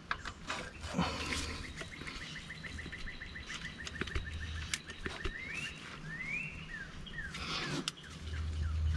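A bird singing: a fast trill of short repeated notes for a few seconds, then a few quick rising and falling whistles. Scattered sharp clicks sound alongside.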